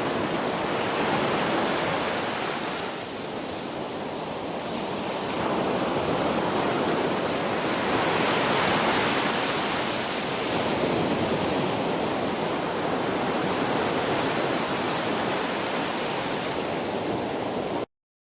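Ocean surf: waves breaking and washing on a beach, swelling and easing every few seconds, then cutting off suddenly near the end.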